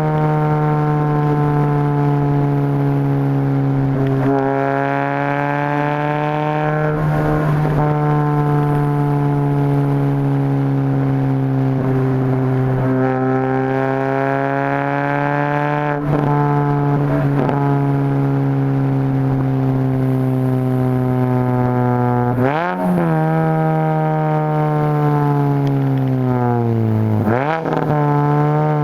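Exhaust of a straight-piped 2004 Mini Cooper R50 with the 1.6 L Tritec SOHC four-cylinder, running at fairly steady revs with a drone that slowly rises and falls in pitch. Near the end, two quick throttle changes briefly drop and then raise the pitch.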